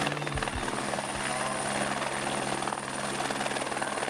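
Helicopter running: a steady engine and rotor drone with a thin high whine above it.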